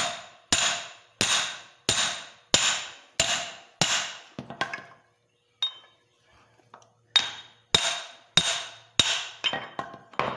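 Hammer blows on a steel splitting wedge driven between the flywheels of a Gravely L crankshaft to split them apart at the crank pin. Seven evenly paced ringing metal strikes, about one and a half a second, then a pause of about three seconds, then four more strikes and a few lighter taps near the end.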